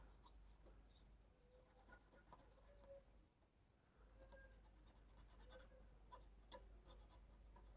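Near silence with faint light scratching and a few soft clicks: contact points on an LED TV panel board being scrubbed clean.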